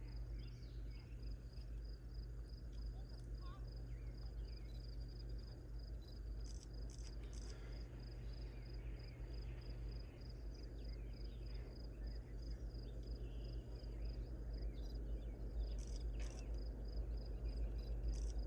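A steady, high-pitched chirping pulsing a few times a second, typical of an insect, over a low rumble, with a few short high clicks.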